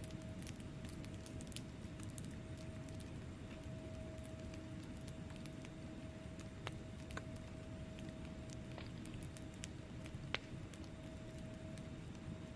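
Wood fire burning in a fireplace: a steady low rumble of flames with scattered sharp crackles and pops from the logs, a few louder ones about seven and ten seconds in. A faint steady hum runs underneath.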